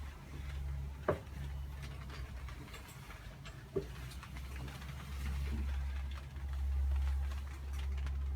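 Footsteps and knocks of someone climbing the steps up to a motor cruiser's flybridge: two sharp knocks, about a second in and just under four seconds in, and light scattered ticks over a low, steady rumble.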